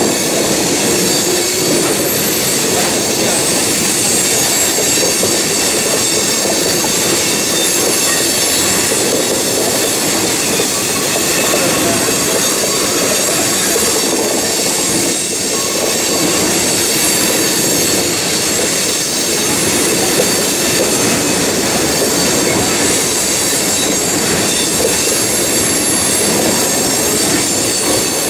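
Freight train of coal hopper cars rolling past at steady speed: a continuous rumble of wheels on rail with a steady high-pitched wheel squeal over it.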